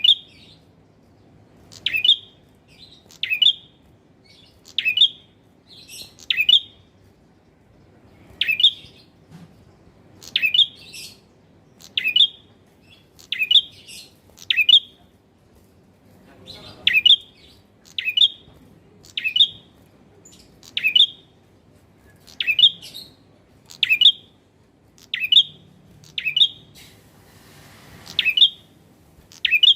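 Male prenjak (prinia) calling: a short, sharp chirp repeated about every second and a half, over and over.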